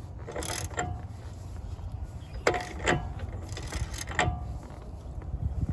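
Several separate metal clinks and knocks, some ringing briefly, from a socket and wrench turning the axle nut to draw the drive axle into a newly fitted wheel hub. A steady low hum runs beneath.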